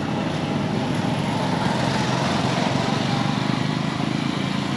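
A motor vehicle's engine running steadily, with an even low hum and road noise.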